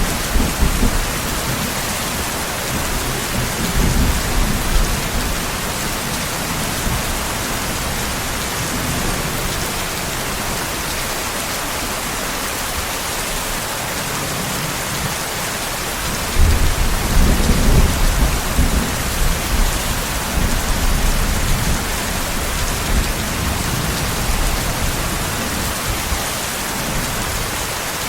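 Steady rain with distant thunder. There is a rumble about four seconds in, and a longer, louder rumble starts about sixteen seconds in and fades out over several seconds.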